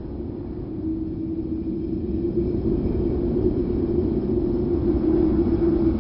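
Wind sound effect: a low, steady rush of wind with a moaning tone running through it, slowly swelling in loudness.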